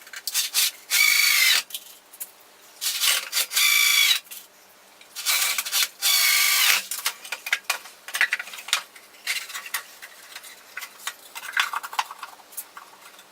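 Power drill driving screws into wood in three bursts of a second or so, its motor whining; then a run of light clicks and knocks of wood and screws being handled.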